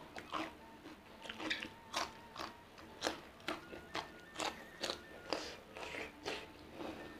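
Close-miked chewing of crunchy raw vegetables, with sharp bites and crunches about twice a second.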